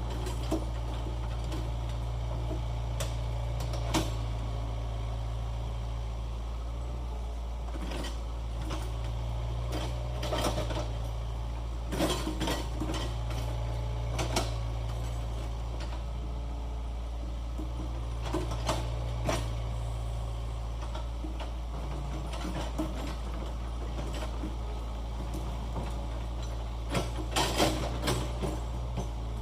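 Hitachi 75 excavator's engine running steadily while irregular metallic clanks and knocks come from the working machine, several in quick clusters near the end.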